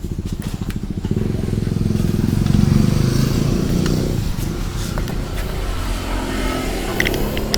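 Motorcycle engine passing by, growing louder to a peak about two and a half seconds in and fading away after about four seconds.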